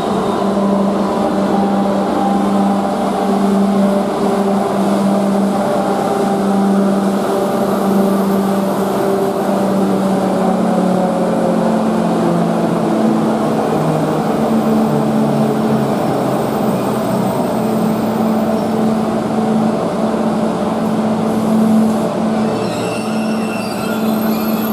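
Train running through the station with a loud, steady hum and several drive tones. Some of the tones fall in pitch around the middle, as the train slows.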